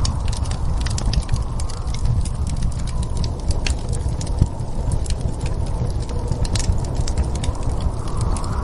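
Fireplace crackling: many small, irregular sharp pops and snaps over a steady low rumble of storm wind.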